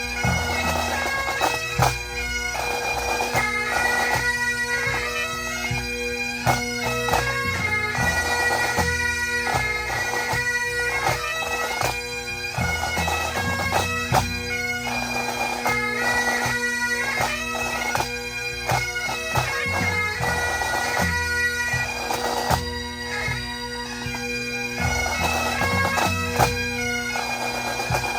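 Pipe band playing: Highland bagpipes sound a tune on the chanters over a steady drone, with snare and bass drums beating along.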